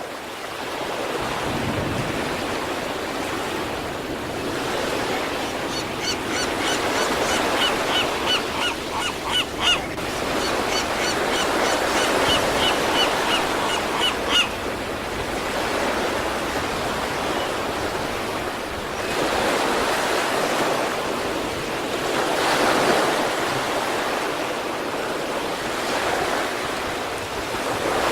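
Sea waves breaking and washing onto the shore in slow surges that swell and ebb. From about 6 to 14 s a bird calls over the surf in a run of short, repeated high notes.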